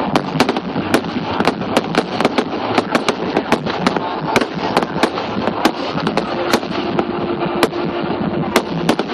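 Fireworks display: a rapid, irregular stream of sharp bangs and crackling pops, several a second, over a continuous dense din.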